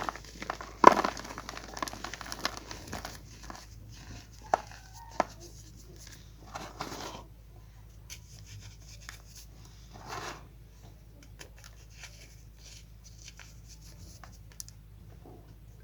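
Chalk being crushed and crumbled: dry crackling and crunching with a few sharp snaps, busiest in the first few seconds, then thinning out to small, scattered crumbles.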